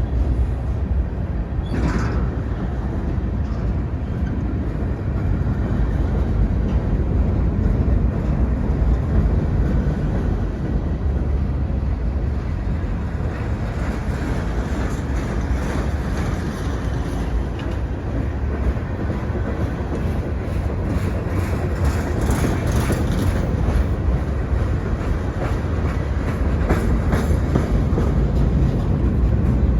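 Freight train cars rolling past with a steady rumble, their wheels clicking over the rail joints.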